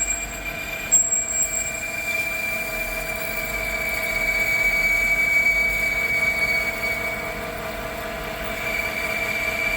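Metal-cutting tool working a steel plate, with a steady high squeal over the machine's running noise and a brief knock about a second in.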